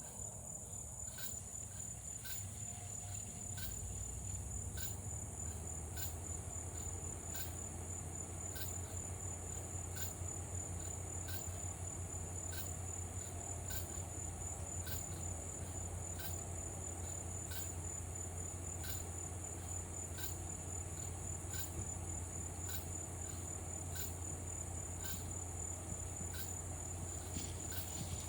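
Evening insect chorus of crickets and cicadas: a steady high trill with a regular chirp repeating a little faster than once a second. A low steady hum sits underneath.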